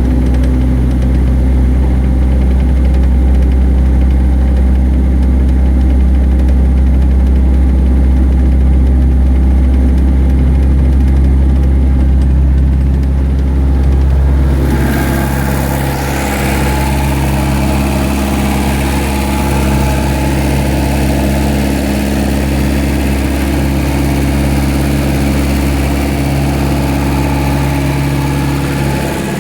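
Atomic 4 four-cylinder gasoline inboard marine engine idling steadily after a cold start. About halfway through, the deep low hum drops and a steady hiss joins the engine sound.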